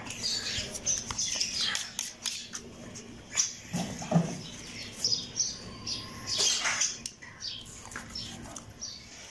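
Small birds chirping on and off, with scattered sharp clicks.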